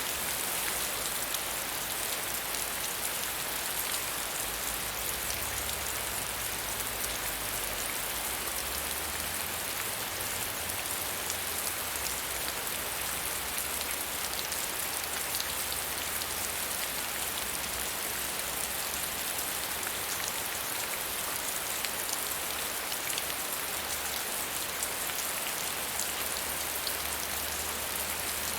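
Steady medium rainfall: an even hiss of rain with many small drops ticking throughout.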